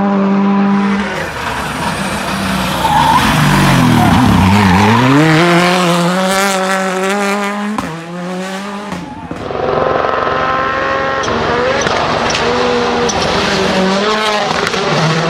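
Rally car engines driven hard, across more than one clip. One engine's note drops about four seconds in, then climbs steadily as the car accelerates. After an abrupt break, another engine revs up and down through gear changes.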